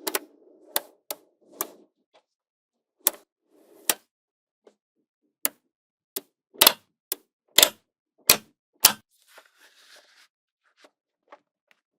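Small magnetic balls snapping together one at a time, about a dozen sharp clicks at irregular intervals, with a soft rattle of balls shifting and rolling between some of them.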